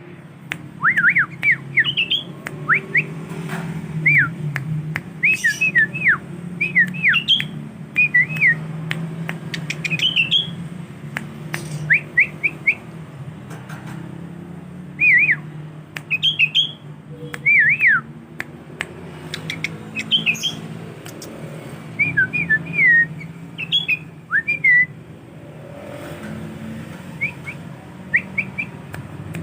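Sooty-headed bulbul singing short whistled phrases of quick rising and falling notes, in bursts every second or two. A steady low hum runs underneath.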